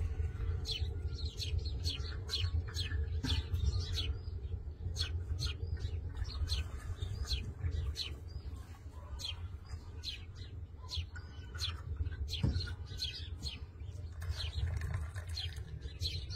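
Small birds chirping in short, quick notes, a few per second, over a steady low rumble.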